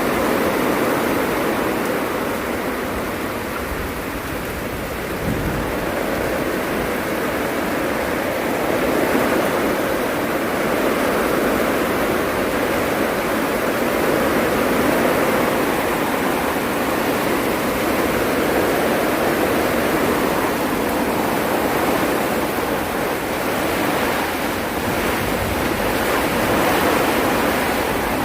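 Heavy rainstorm with strong wind: a steady roar of downpour and gusts that swells and eases slowly.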